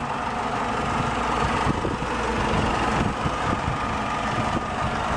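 A 2008 Chrysler PT Cruiser's 2.4-litre inline four-cylinder engine idling steadily.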